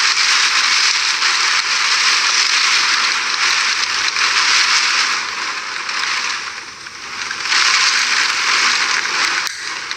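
Heavy hurricane rain pouring down in a steady hiss that eases briefly about six to seven seconds in, then comes back as hard.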